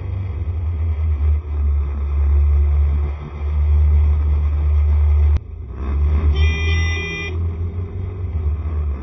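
Riding a Honda SCR110 scooter in traffic: a heavy low rumble of wind and engine on the microphone, broken by a sharp click about five seconds in. Just after, a vehicle horn beeps for about a second.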